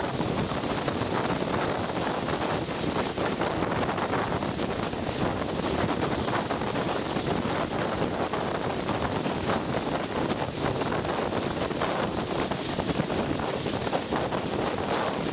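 A heritage train running through a tunnel: steady noise of wheels on rail and rushing air, with wind on the microphone held at the carriage window.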